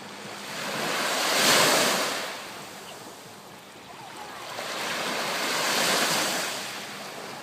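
Waves washing in twice, each one swelling up and fading away over a couple of seconds.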